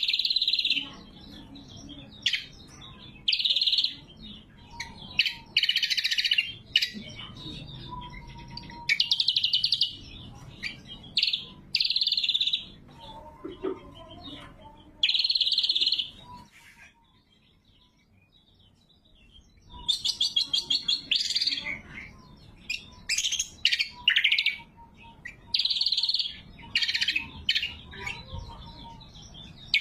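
Greater green leafbird (cucak kombo) singing loud, sharp phrases in quick bursts of about half a second to a second each, broken by a pause of a few seconds midway.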